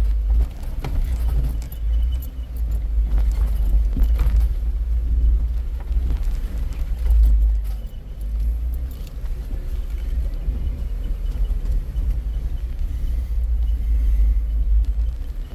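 Off-road vehicle driving over a rough dirt trail: a steady heavy low rumble with scattered short knocks and rattles.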